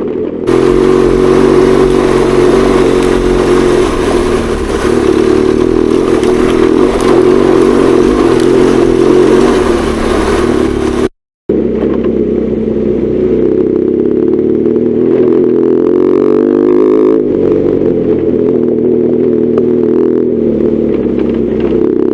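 BMW R1200GS Adventure's boxer-twin engine running under way, with loud wind rush on the microphone in the first half. The sound drops out briefly about halfway, then the engine continues with revs rising and falling.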